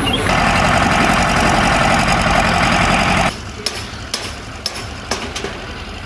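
An engine running loudly and steadily, which drops away suddenly about three seconds in, leaving a quieter stretch with a few sharp clicks.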